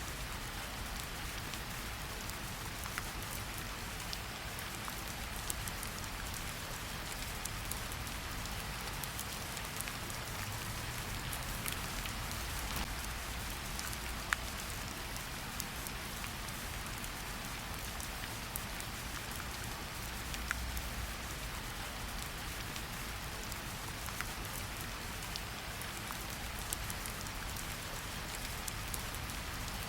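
Steady rain falling in a forest, an even hiss of rain with scattered louder drops ticking close by.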